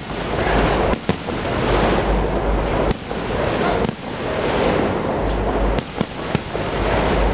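Aerial fireworks bursting overhead in a dense barrage: a continuous wash of bangs and crackle with heavy low rumble, with no pause between shells.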